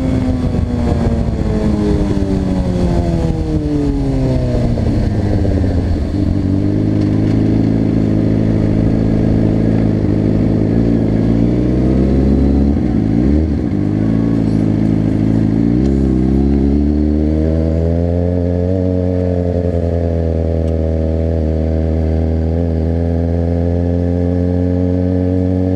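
Suzuki GSX-R 600 inline-four engine winding down in pitch as the motorcycle decelerates over the first few seconds. It then runs at low, steady revs, dips and rises briefly, and settles slightly higher. A low rumble of wind noise under the engine drops away about two-thirds of the way through.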